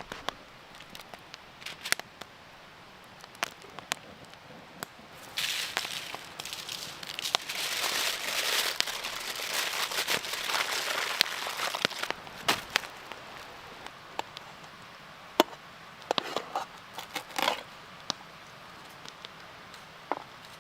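Campfire crackling, with sharp pops scattered throughout as the fire is built up big for a bed of hot coals. A louder stretch of rushing noise comes from about five to twelve seconds in.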